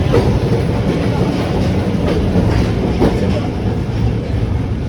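Running noise heard aboard a tram during a ride: a steady low rumble of wheels on rail, with a few clicks and knocks from the track.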